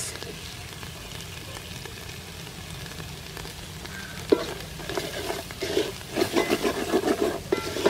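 Spice paste of chopped garlic, dried chili and curry powder sizzling in oil in a large metal pot. About four seconds in, a wooden ladle starts stirring it with a quick run of scraping strokes against the pot.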